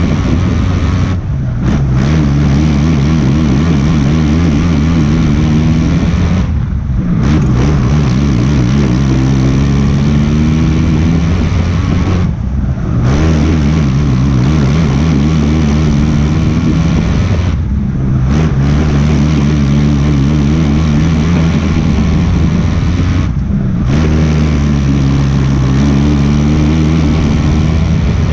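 Race car engine at full power, heard onboard. The pitch climbs as it accelerates, and it lifts off sharply about every five and a half seconds for each corner of the oval.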